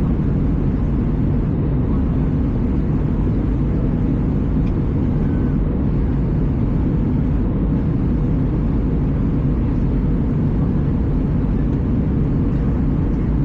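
Steady in-flight cabin noise of an Airbus A320: engine and airflow drone heard inside the cabin, deep and even, without changes.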